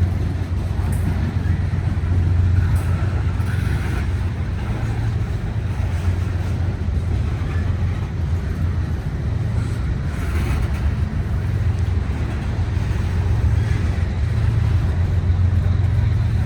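Freight train cars rolling past, a steady low rumble of wheels on rail that swells and eases slightly.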